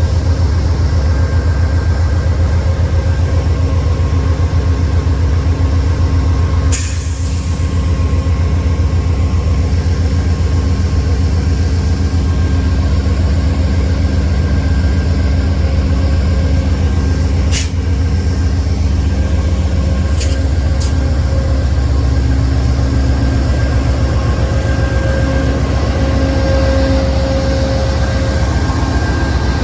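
A train running past: a loud, steady rumble with a few steady tones in it, broken by a few brief sharp clicks.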